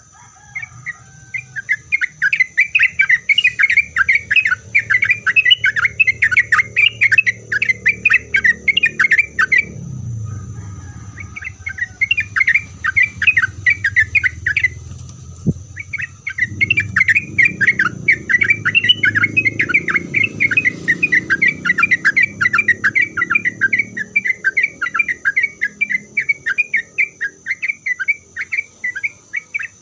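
Yellow-vented bulbul (trucukan) singing a long, rapid chattering song of quick repeated notes, broken by two short pauses. A steady faint high-pitched whine runs underneath.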